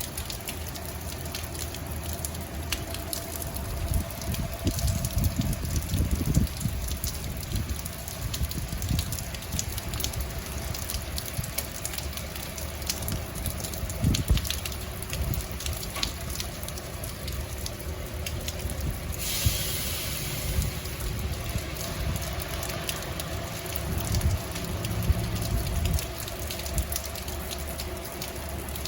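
Rain falling, with many small drips and spatters, and low rumbling that comes and goes. About twenty seconds in there is a brief louder hiss.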